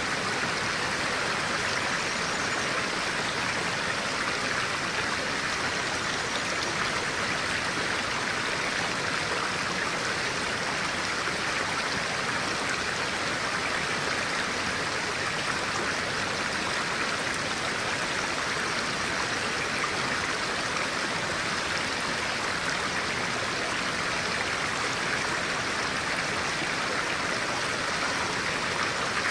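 A clear-water stream running, a steady even rush of flowing water.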